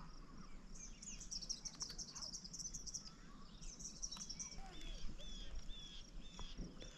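Wild birds calling faintly: a rapid, high twittering trill in the first few seconds, then a run of short repeated chirps, about two a second.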